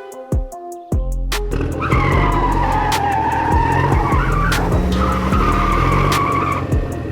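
A wavering high whine, like a vehicle's tyres or motor straining, begins about two seconds in and carries on for about five seconds. It sits over background music with a steady beat.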